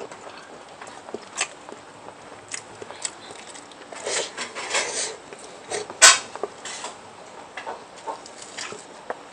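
Eating sounds: chewing and biting with scattered short clicks and crackles, and one sharp click about six seconds in.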